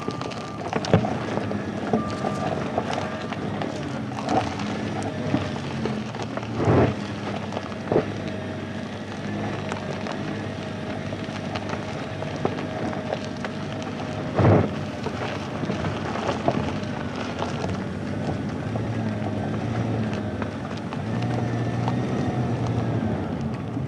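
Car driving on an unpaved dirt road: tyres crunching over gravel and stones, with a few sharp thumps as the car jolts over bumps.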